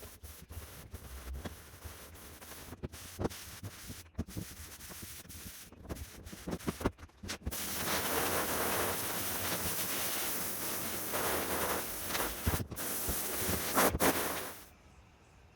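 A hand scraper rasping and clicking as it scrapes wet vinyl, paper and glue off a caravan floor, then a garden hose spraying in a steady hiss for about seven seconds, cutting off suddenly near the end.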